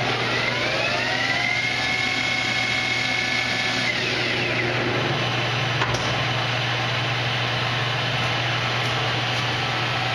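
Victor engine lathe's geared spindle spinning up to 860 RPM with a rising whine, running steadily for a couple of seconds, then winding down with falling pitch about four seconds in as the spindle brake shuts it off. A steady low hum runs underneath, with a single sharp click about six seconds in.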